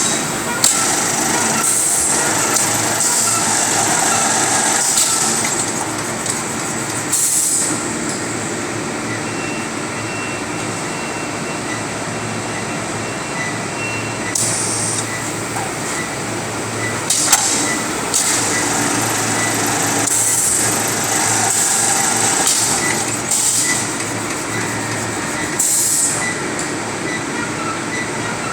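Automatic 50 kg bag-packaging machine running: a steady machine hum and whine, with short hissing bursts recurring every few seconds.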